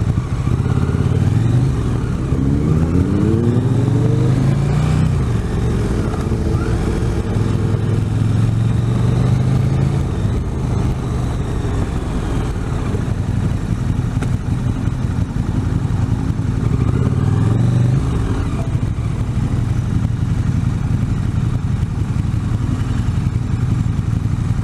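Motorcycle engine under way, pulling through the gears. The pitch climbs in stepped rises near the start and again about two-thirds through, with steadier running between, all over a constant low rumble.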